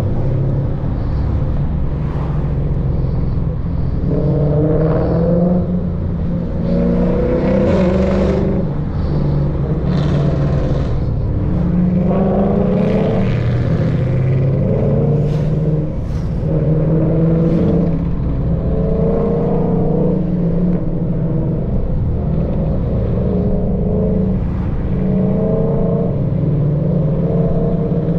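Lexus F-car V8 on a straight-piped exhaust, heard from a car in the cruise, revving up and easing off over and over: the engine note climbs and drops in pitch every couple of seconds. Unbelievably loud.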